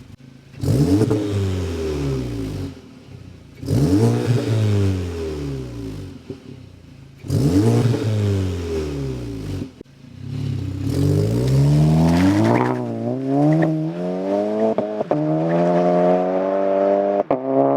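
VW MK7 GTI's turbocharged 2.0-litre four-cylinder through an AWE Touring Edition cat-back exhaust with an aftermarket downpipe: three quick free revs that rise and fall back, then a longer pull climbing in pitch with brief breaks at the upshifts.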